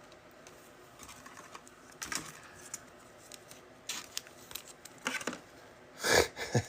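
Trading cards and their packaging being handled: scattered short rustles and light clicks, with a louder rustle about six seconds in.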